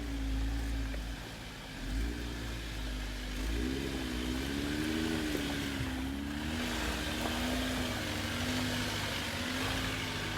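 A vehicle engine running, its pitch wavering slowly up and down over a low rumble.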